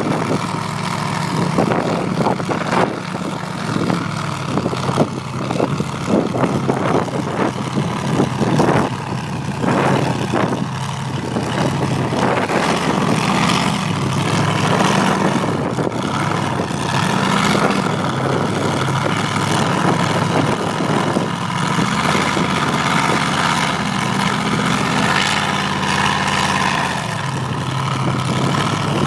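Off-road truck's engine running hard, its pitch rising and falling as it revs and eases off.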